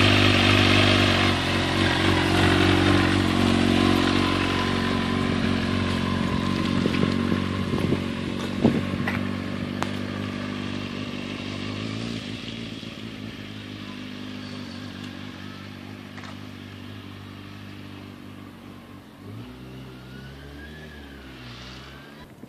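Kawasaki ZX6R 636 inline-four sport bike engine with a Yoshimura exhaust, running at a steady note that fades slowly as the bike gets farther away. A different low, wavering engine note comes in near the end.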